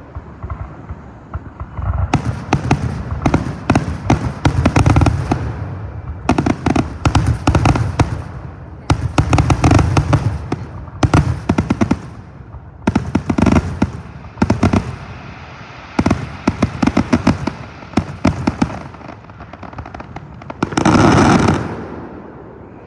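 Fireworks going off in rapid volleys: clusters of sharp crackling bangs over deeper booms, one after another, with a louder, denser burst near the end.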